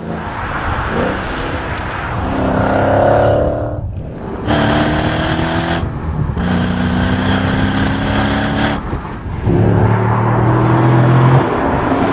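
Performance car engine accelerating hard in four pulls, its pitch climbing slightly through each pull. Each pull is cut off by a brief break, like a gear change or lift, before the next.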